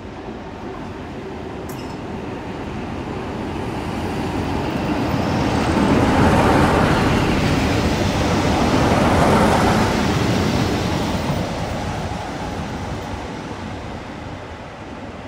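A train passing close by at a station: a rumble that builds up, stays loudest for a few seconds in the middle, then fades away.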